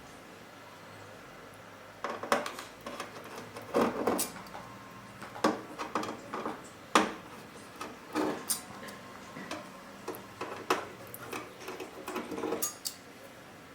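Irregular small clicks, taps and rustles of tools and circuit-board parts being handled on a workbench, starting about two seconds in, with one sharper click about seven seconds in.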